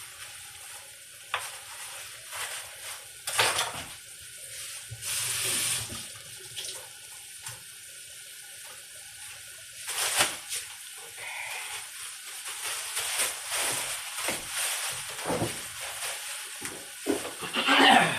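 Onions sautéing in butter in a pan, a steady faint sizzle, with irregular knocks and clatter of utensils and dishes; the loudest clatter comes near the end.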